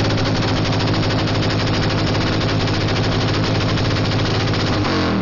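Motorcycle engine revved up and held at high, steady revs for about five seconds with a rapid, hammering exhaust beat, then dropping off near the end: a full-throttle run for a decibel meter, measured at 125.6 dB.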